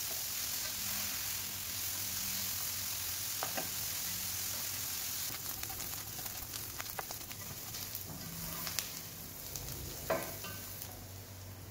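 Green bell pepper strips sizzling as they fry in oil in a pan on a high flame, with a spatula scraping and clicking against the pan as they are stirred continuously. The sizzle grows a little fainter over the last few seconds.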